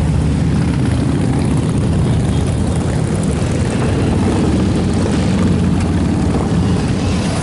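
Steady low rumble of many motorcycle engines from a large pack riding by.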